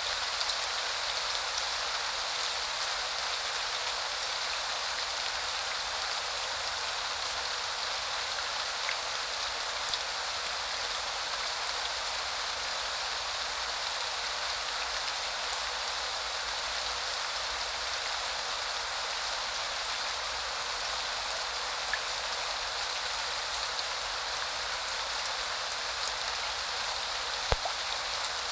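Steady rain falling, an even hiss with a few sharper drops ticking through it; the loudest single drop comes near the end.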